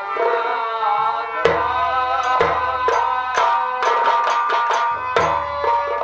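Live Bhojpuri nautanki folk music: held melody notes, with a hand drum joining about a second and a half in to beat roughly twice a second, deep thuds under the sharp strokes.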